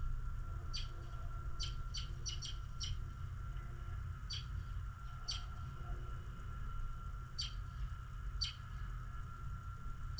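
Small birds chirping: about ten short, high chirps at irregular intervals, some in quick clusters. Underneath runs a steady low rumble and a faint steady hum.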